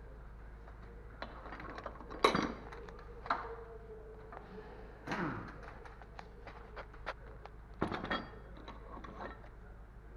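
Scattered metallic clinks and knocks of tools and parts being handled, the loudest about two seconds in, with a short falling squeak about five seconds in.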